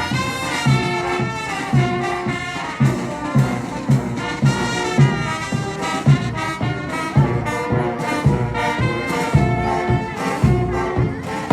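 Brass band music, trumpets and trombones playing a lively tune over a steady beat, typical of a school marching band on parade.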